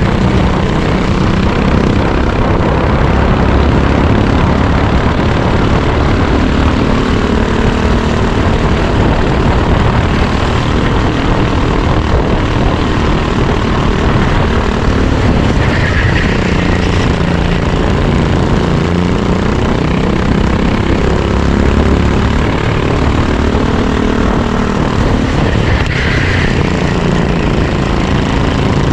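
Racing kart engine running hard throughout, its pitch rising and falling as the kart speeds up and slows for corners.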